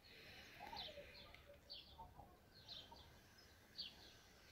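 Faint chirps of a small bird, a handful of short falling notes spaced about a second apart, over a very quiet background.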